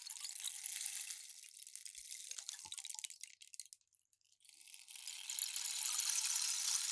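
Rain stick pouring with a rain-like hiss that thins to a few scattered ticks and stops about four seconds in, then starts again as the stick is turned over and builds back to a full hiss.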